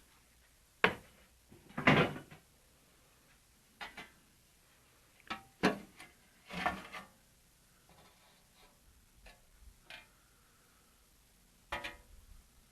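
Irregular clanks and knocks of sheet-metal engine tinware and tools being handled and set down during dismantling, about half a dozen separate knocks with short ringing tails.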